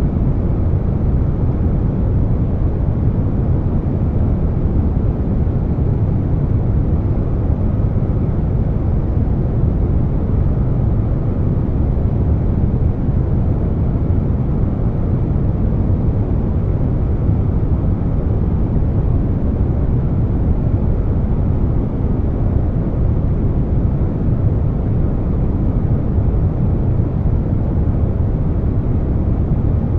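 Air conditioner running, mixed with brown noise: a steady, deep rushing noise with no changes.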